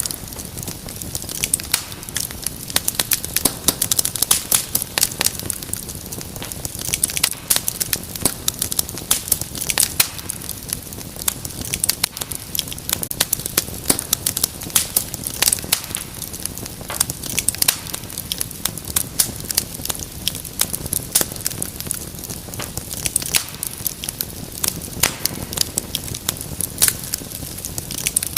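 Wood fire crackling in a fireplace: a steady stream of sharp pops and snaps over a low hiss.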